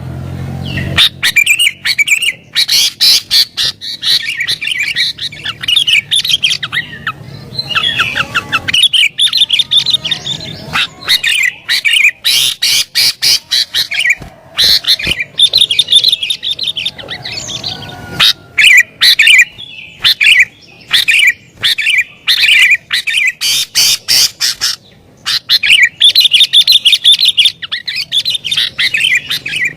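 Sooty-headed bulbul singing loudly and excitedly, rapid chattering phrases of sharp notes in runs of a few seconds with short pauses between them.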